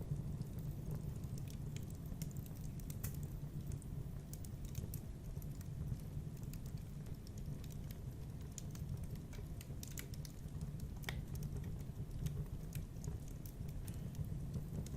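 Wood fire burning in a fireplace: irregular small crackles and pops over a steady low rumble of the flames.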